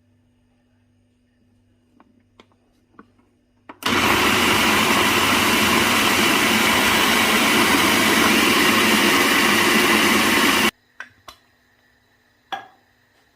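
Electric blender or mixer-grinder running steadily for about seven seconds, switched on about four seconds in and cutting off suddenly, with a few light clicks and knocks of handling before and after.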